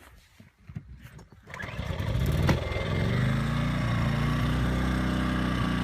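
A small portable inverter generator's gas engine starting after a few faint knocks, revving up over about a second and then settling into a steady run.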